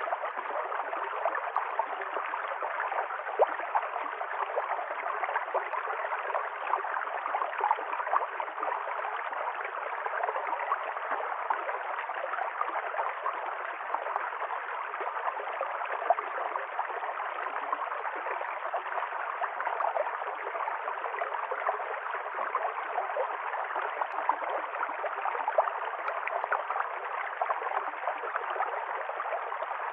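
A river stream flowing and gurgling steadily, full of small splashes and bubbling.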